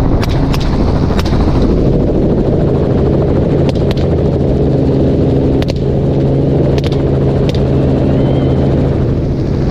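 Helicopter engine and rotor droning steadily, with about eight sharp rifle shots scattered across it.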